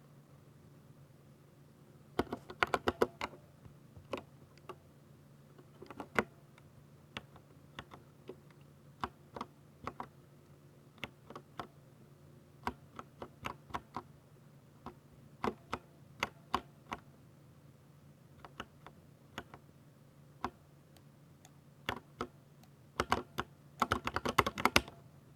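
Typing on a 60% Ducky mechanical keyboard with silver switches. Two quick flurries of keystrokes, one about two seconds in and one near the end, with slower, scattered key presses in between.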